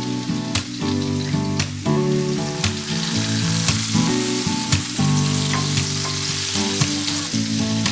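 Food sizzling as it fries in a pan, under background music with held notes and a steady beat about once a second.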